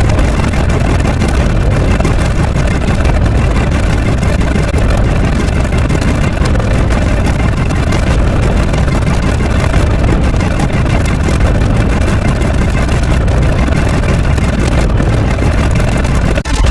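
A loud, steady engine-like rumble, a dense noise heaviest in the low end, with a brief dip near the end.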